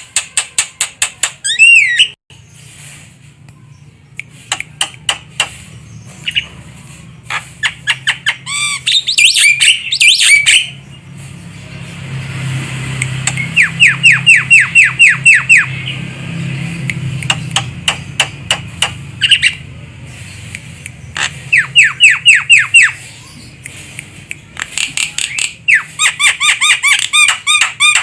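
Javan myna (jalak kebo) calling: bursts of harsh, rapidly repeated squawks and chatter, with two runs of quick, evenly spaced whistled notes in the middle, over a faint low hum.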